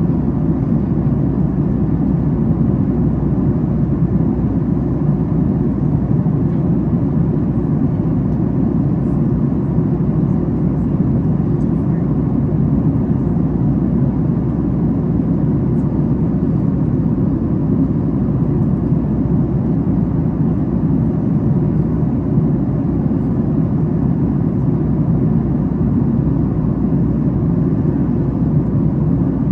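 Steady cabin roar of a Boeing 737 MAX 8 at cruise, heard from an economy seat: a deep, even rush of engine and airflow noise with no change in level.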